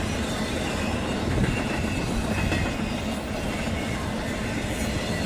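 Double-stack container freight train rolling past: a steady rumble of its steel wheels on the rails.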